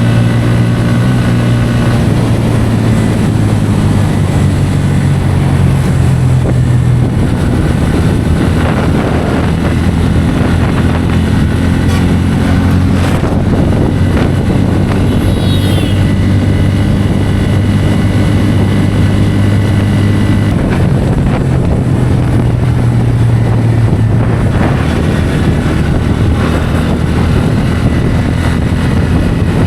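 Bajaj Pulsar N160's single-cylinder engine running at highway speed, its note rising and falling a few times with the throttle, over steady wind rush on the microphone.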